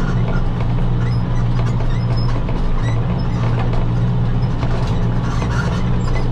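Tractor engine running steadily at a constant speed while pulling a hay baler through the windrows, with light ticking from the baler's mechanism.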